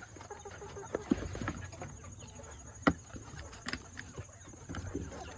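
Chickens clucking softly, with scattered sharp taps and clicks.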